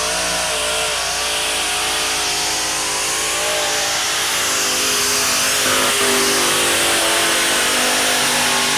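Modified pulling tractor's engine running hard at high revs under load, its pitch holding fairly steady with small wavers.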